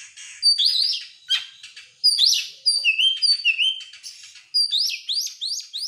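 Oriental magpie-robin (kacer) singing a fast, varied song of clear whistles and quick rising notes, ending in a rapid run of repeated rising notes.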